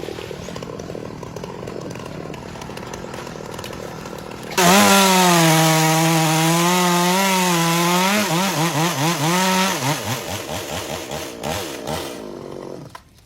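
Two-stroke chainsaw running, quieter at first, then suddenly much louder at high revs about four and a half seconds in. It holds a steady pitch for a few seconds, then wavers up and down and dies away near the end.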